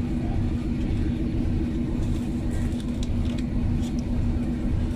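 A train standing at a station platform, its engine running with a steady low drone and hum, and a few faint clicks in the middle.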